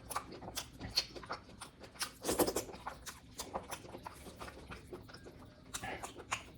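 Mouth sounds of eating oily pork curry with rice: irregular wet chewing and lip-smacking clicks, with a louder cluster about two seconds in and again near the end.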